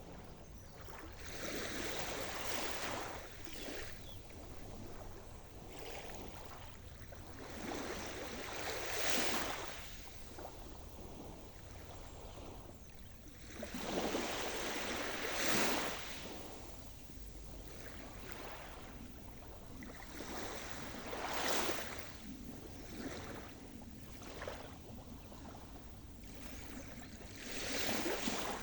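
Sea surf: waves break and wash up the shore in a rising and falling hiss about every six to seven seconds, five times here, with quieter lapping in between.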